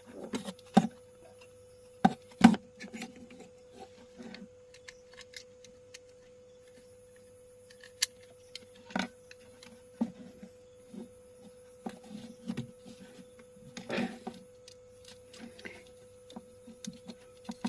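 Hands handling a small amplifier board and tying up its wires: scattered sharp clicks and short rustles, the loudest about a second and two and a half seconds in, over a faint steady hum.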